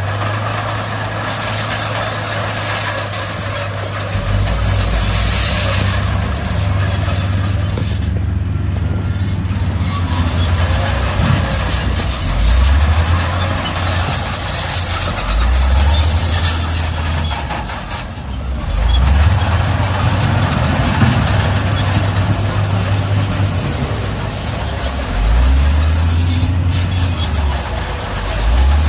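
Heavy diesel earthmoving machinery running under load, the engine rising in pitch again and again as it is throttled up, over a constant mechanical clatter and hiss.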